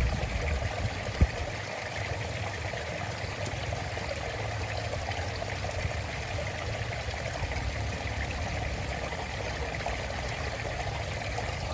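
A stream of water flowing and trickling steadily, with a single brief low thump about a second in.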